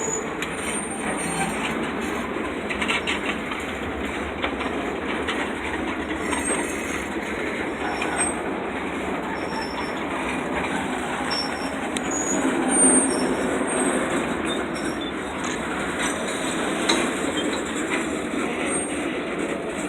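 Train cars rolling past on the rails: a steady rumble of wheels with faint clicks over the rail joints and occasional short, high wheel squeals.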